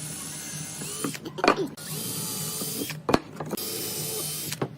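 An electric power tool motor runs with a steady whine, loudest in two stretches of about a second each. Sharp knocks fall between them.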